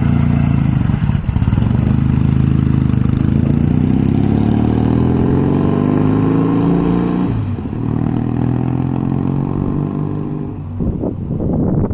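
A 1973 Norton Commando 850's air-cooled parallel-twin engine pulls away and accelerates hard. Its pitch climbs, falls back once about seven seconds in, then climbs again as the sound fades into the distance.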